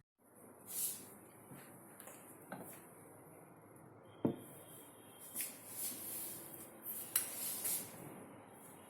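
Light metallic clinks and knocks of tools or small items being handled, with one sharper knock about four seconds in, over a steady hiss.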